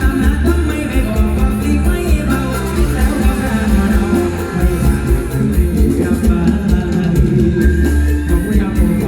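Loud, amplified mor lam band music, with a heavy bass and a steady beat.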